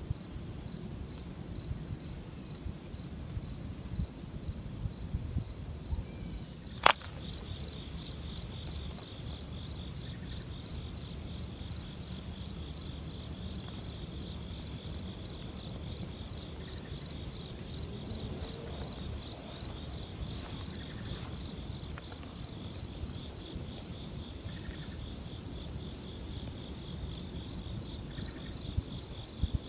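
Insects calling: a steady high-pitched trill, joined about seven seconds in by an even, rhythmic chirping of two to three pulses a second. A single sharp click comes just before the chirping starts, over a low rumble.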